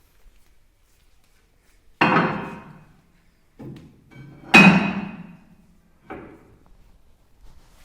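Heavy metal pieces clanking: four hard metallic impacts, each ringing briefly. The third is the loudest.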